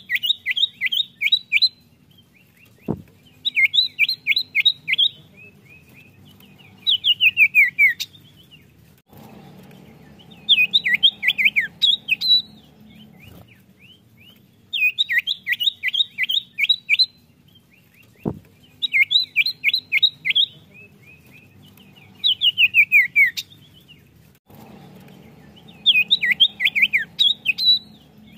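Common iora (cipoh) calling: short bursts of rapid, high chattering notes every three to four seconds, some of them a quick falling trill. A sharp click sounds twice.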